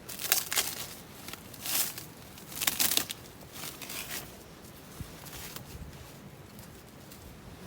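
Plastic food packaging being crinkled and torn open: a few short rustling bursts in the first three seconds, then fainter rustles.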